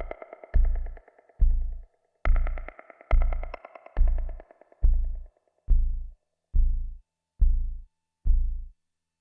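Eurorack modular synth music winding down: evenly spaced low bass pulses a little under a second apart, under a higher arpeggiated synth line. The arpeggio fades out around the middle, and the bass pulses then carry on alone until they stop shortly before the end.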